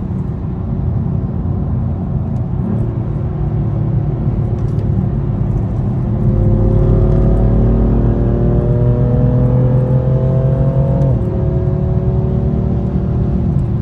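BMW M4's twin-turbo inline-six engine under way, its note climbing steadily for about five seconds as it pulls through a gear, then dropping suddenly near eleven seconds at a shift or lift.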